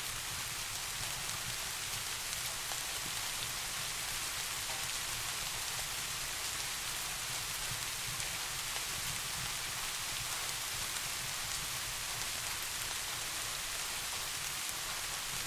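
Steady soft rain falling, an even hiss without a break, over a steady low rumble.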